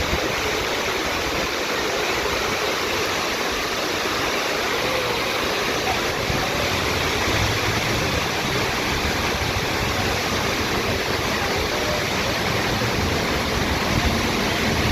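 Steady, continuous rushing of falling water from a waterfall.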